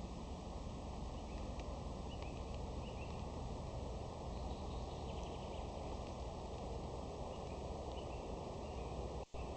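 Outdoor woodland ambience: faint, scattered bird chirps over a steady hiss and low rumble. The sound drops out for an instant near the end.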